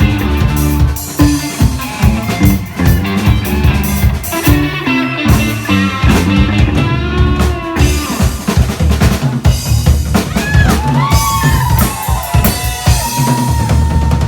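Live indie rock band playing an instrumental break: drum kit with kick and rimshots over bass and electric guitar. About ten seconds in, a lead guitar line comes in with bending notes.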